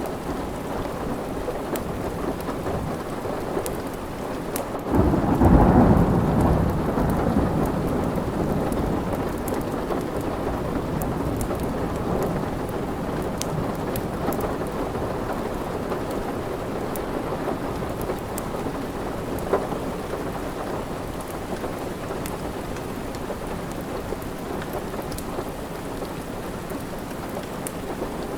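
Steady rain with a roll of thunder that breaks about five seconds in and dies away slowly, over scattered sharp crackles of a wood fire.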